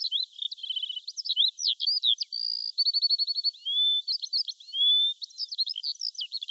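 Songbirds singing: a quick, overlapping mix of high-pitched chirps, short trills and whistled notes, with a fast run of repeated notes about three seconds in.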